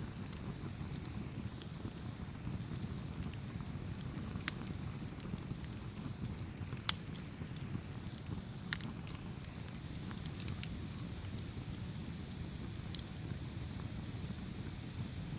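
Campfire burning with a steady low rumble and scattered sharp crackles and pops, the loudest a single pop about seven seconds in.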